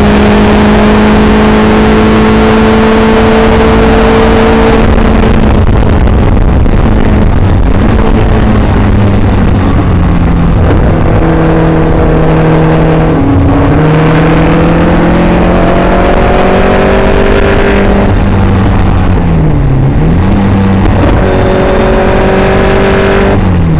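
Caterham Superlight's four-cylinder engine under hard track driving, with a steady rush of wind over the open cockpit. The engine runs high and steady, then falls off about five seconds in. Its pitch climbs and drops back at upshifts, dips sharply and returns around twenty seconds in, and falls again near the end.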